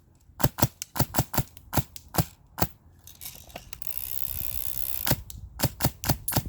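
Krytac LMG airsoft electric gun with a Fusion engine firing single shots on semi-auto: about a dozen sharp, separate shots in two strings. A steady hiss comes in for about two seconds between the strings.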